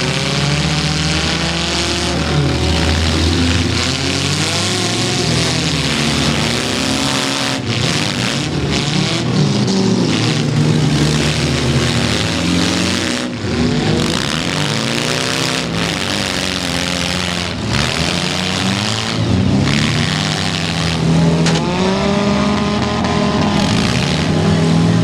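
Several demolition derby cars' engines revving hard at once, their pitch rising and falling over and over as the cars accelerate and back off, over a dense wash of engine noise.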